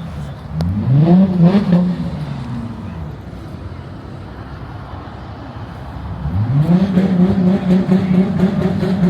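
Car engine revved twice: a short rev about a second in, then a longer one from about six seconds in that climbs and holds at a steady pitch.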